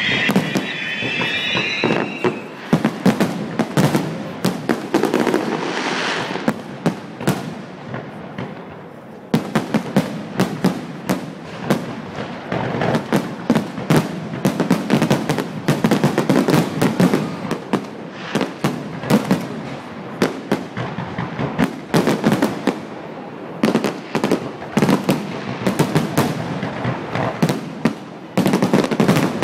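Fireworks finale barrage: a dense, rapid string of shell bursts and crackling, with high whistles in the first two seconds. The barrage thins briefly about eight seconds in, then starts again abruptly, and dips once more near the end.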